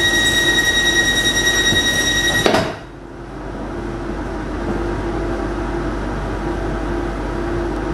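Passenger train running, heard from inside, with a steady high-pitched squeal that cuts off abruptly about two and a half seconds in. After that the quieter rumble of the moving train remains, slowly growing louder.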